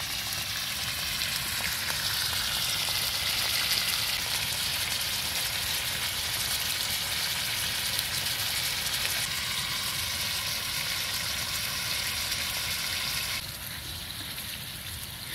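Food frying in a pan, a steady sizzling hiss that becomes suddenly quieter near the end.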